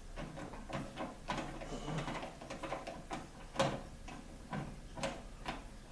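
Irregular clicks and knocks of hand work on a microwave's sheet-metal casing as its screws are driven back in, a few a second, with one sharper knock about halfway through.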